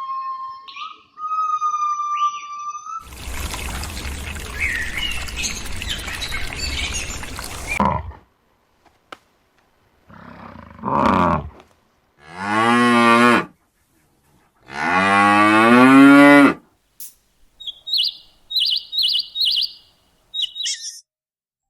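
A series of animal calls: a steady pitched tone, then a long noisy rumbling stretch, then three drawn-out low calls with a wavering pitch, the last the loudest, followed by quick high chirps in short runs near the end.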